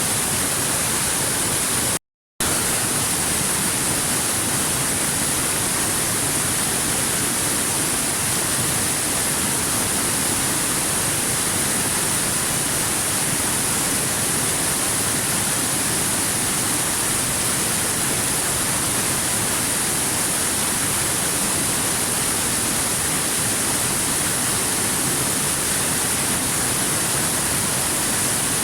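Waterfall, a steady, even rush of falling water, strong in the hiss. It cuts out briefly about two seconds in and resumes unchanged.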